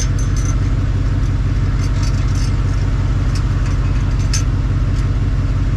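Car engine idling steadily, its exhaust rumbling low and even, with a few light clicks over it.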